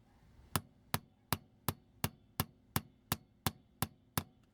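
Small hammer tapping lightly and steadily, about three taps a second, to drive a jammed pin out of a vintage G1 Transformers toy. The pin is starting to give.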